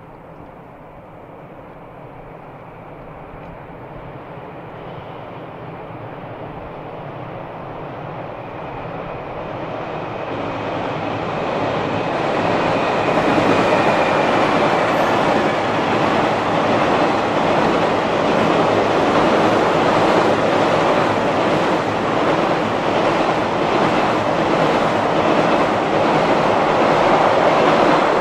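Electric train approaching and crossing a railway bridge. The rumble and wheel clatter grow steadily louder over about twelve seconds, then run loud and steady as the train passes close.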